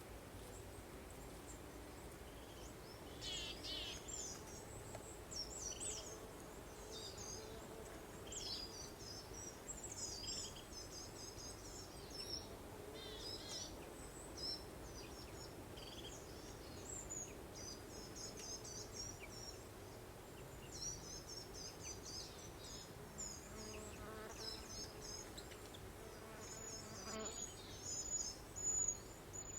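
Songbirds chirping and trilling, many short high calls one after another, over a steady low background hum.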